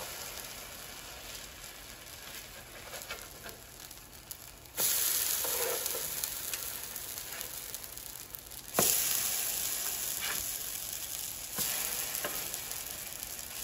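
French toast slices sizzling in butter on a hot griddle. The sizzle jumps suddenly louder three times as each remaining slice is turned onto its uncooked side with a spatula, with light spatula clicks on the griddle.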